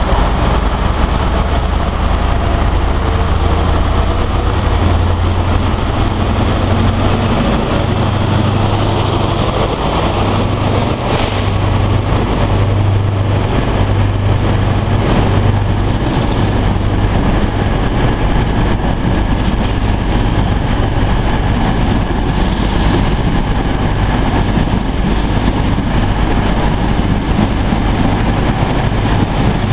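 Diesel passenger trains passing close by a station platform: a steady, loud engine drone with the rumble of wheels on the rails.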